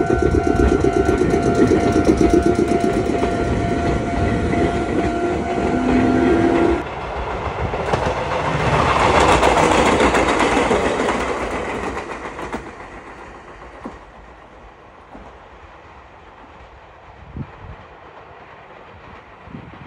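Meitetsu electric trains passing. First a train runs close by with steady tones over the rumble, cut off abruptly about a third of the way in. Then another train passes, its noise swelling and fading by about two-thirds in, and a low background with a few knocks remains.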